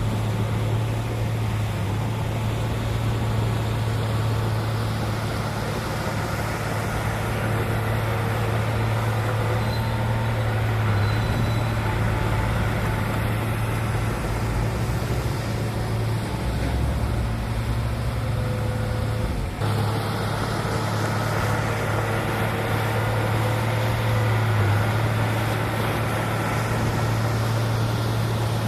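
Heavy diesel engine of earthmoving machinery running steadily: a constant low drone with a brief abrupt break about two-thirds of the way in.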